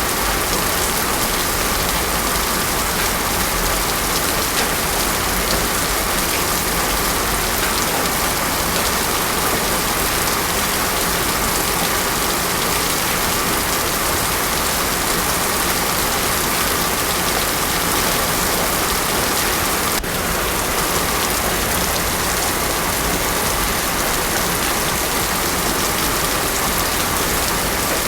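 Heavy rain falling steadily on a road, a dense, even hiss with no thunder.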